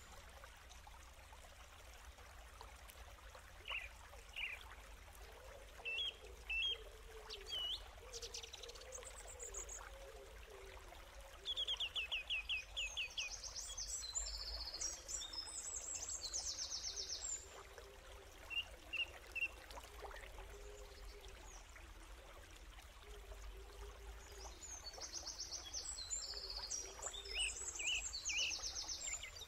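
Small songbirds chirping and trilling in repeated short phrases over a faint steady hiss.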